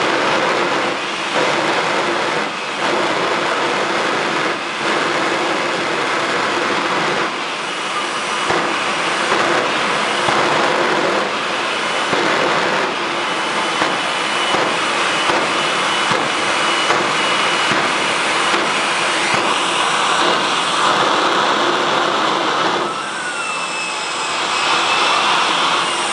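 Jet truck's jet engine running loudly and steadily, with occasional sharp pops through the noise. Near the end the sound changes and whistling tones glide in pitch.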